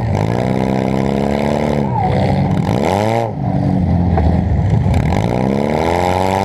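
Demolition derby car's engine heard from onboard, revving up and down: the pitch drops at first, holds low, rises sharply and falls just after three seconds in, then climbs steadily again toward the end.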